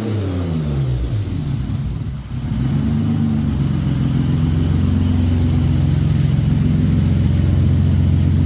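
Toyota 2GR-FE 3.5-litre V6 swapped into a Toyota Tazz on its first start-up: the revs fall away over the first two seconds, dip briefly, then settle into a steady idle.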